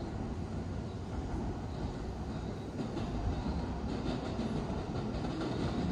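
An electric train running, a steady low rumble.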